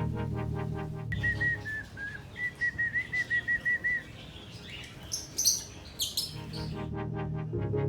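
Electronic background music breaks off about a second in; a run of short, high whistled notes, about four a second, follows, then a few higher chirps, before the music comes back near the end.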